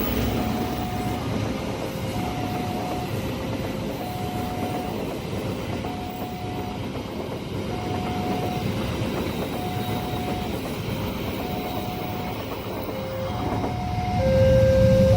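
A train rumbling past a level crossing, its wagons rolling over the rails, while the crossing's warning alarm repeats a two-tone high-low signal about once a second. The rumble grows sharply louder near the end.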